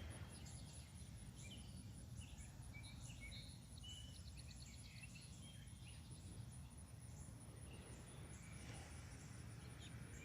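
Faint chirps and calls of songbirds, busiest in the first half, over a steady, pulsing, high-pitched insect trill.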